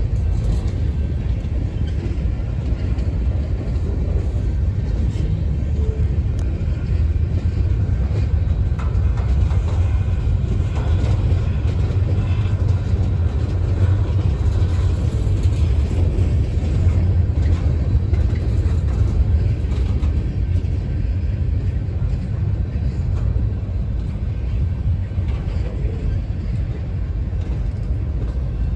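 Freight cars of a long CSX train, open-top hoppers and gondolas, rolling past on the track. Their steel wheels make a steady, loud, deep rumble on the rails.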